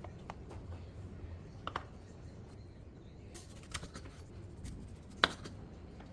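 Light clicks and taps of hands handling food and kitchen items while preparing a snack, with one sharp click about five seconds in.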